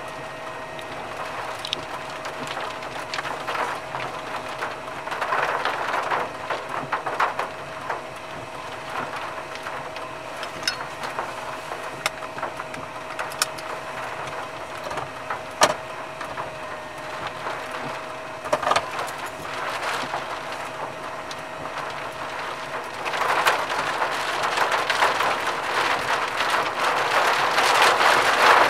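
Rain falling on a vehicle, a steady patter with scattered sharp ticks of drops, getting heavier near the end.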